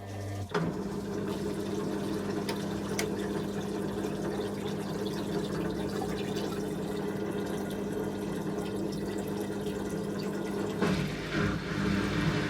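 Candy Aquamatic 100F washing machine at the start of its final 800 rpm spin, its drain pump running with a steady hum as the rinse water is pumped out. The hum cuts out briefly at the start and picks up again about half a second in, and the sound shifts near the end.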